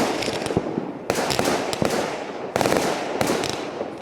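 Display fireworks bursting: sudden bangs about a second in, at two and a half seconds and just after three seconds, each fading away with a rapid crackle of small pops.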